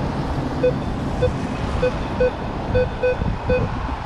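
Minelab Vanquish 440 metal detector giving short, low-pitched beeps, seven of them at uneven spacing, as the coil is swept over a target that reads about 4 on the display. Steady wind rumble on the microphone runs underneath.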